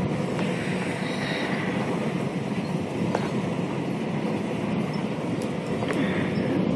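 Strong thunderstorm wind blowing hard and steadily, a dense rushing noise, with a couple of faint sharp clicks partway through.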